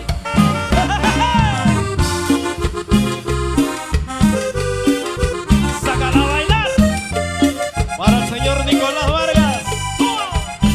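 Live Latin band music, instrumental: a sliding melody line over a steady, repeating bass and beat.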